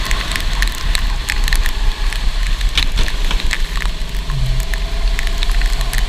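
Go-kart running on a wet, rain-soaked track: a heavy low rumble with a faint engine note, under constant crackling ticks.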